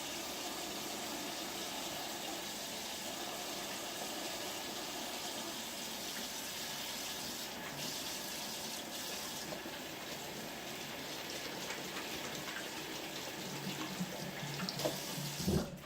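Kitchen tap running into a sink while someone washes their hands, a steady stream of water that is turned off suddenly near the end.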